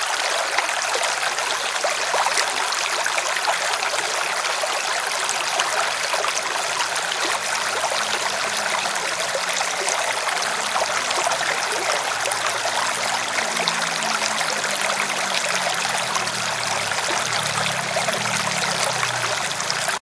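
River water splashing and rushing in a steady, even stream.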